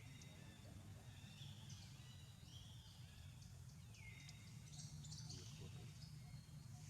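Faint outdoor ambience with birds calling: a few whistled calls that slide down and hold steady, about twice, with short high chirps between them, over a low steady hum.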